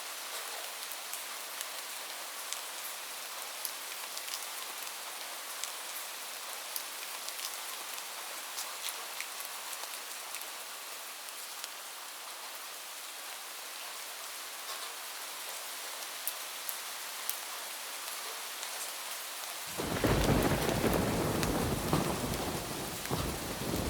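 Steady rain falling on a roof, an even hiss with scattered sharp drop ticks. About twenty seconds in, a loud low rumble of thunder breaks in suddenly and carries on.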